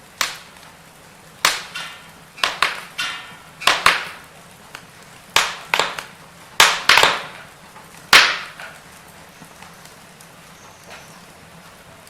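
Burning firewood crackling, with loud sharp pops, often in quick clusters, over the first eight seconds or so. After that only faint small ticks remain.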